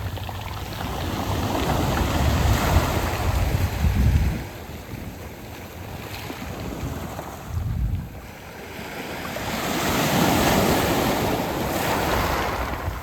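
Surf washing up and back over a beach of round pebbles (mongdol), in two surges: one builds to about four seconds in and drops off suddenly, and another swells up from about nine seconds in. Wind rumbles on the microphone during the first surge.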